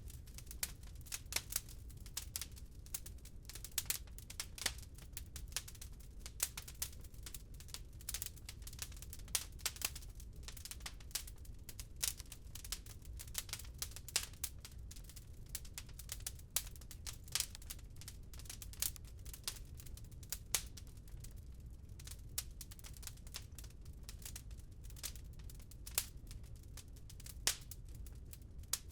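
Wood fire crackling in a fireplace: a steady stream of irregular sharp pops and snaps over a low, steady rumble.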